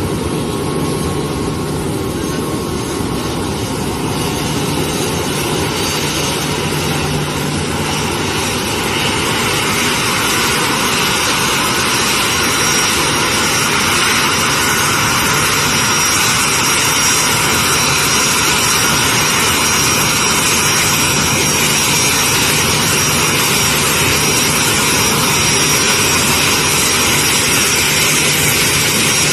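Jet airliner's engines running in a steady rush that grows louder about nine seconds in, with a high steady whine above it from then on.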